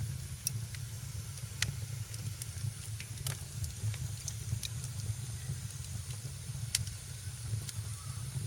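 Wood fire crackling in a fireplace: irregular sharp pops and snaps, one of the loudest about seven seconds in, over a steady low rumble and hiss of burning.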